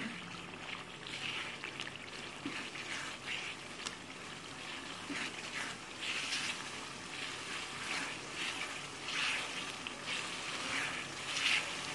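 Raw minced meat sizzling wetly in oil and tomato-onion masala in a pan while a spatula stirs it, with irregular louder stirring strokes every second or so.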